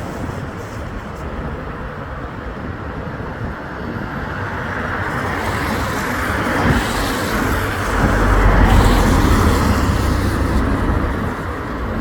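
Road traffic noise that builds as a vehicle approaches and passes close, loudest with a low engine rumble about eight seconds in, then easing off near the end.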